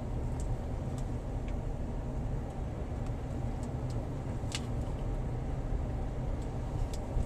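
Steady low rumble of a 2007 Ford Edge's 3.5-liter V6 engine and tyres heard from inside the cabin while driving, with a few faint light ticks.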